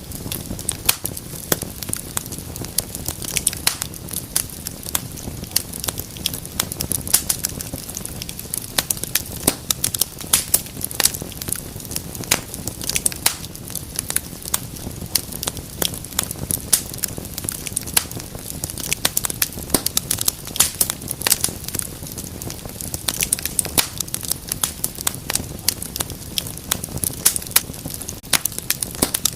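Wood fire burning in a fireplace: many sharp, irregular crackles and pops over a low steady rumble of flame.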